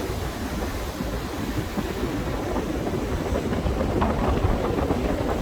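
Typhoon-force wind and rough sea: a steady, low rumbling rush with wind buffeting the microphone, growing a little louder toward the end.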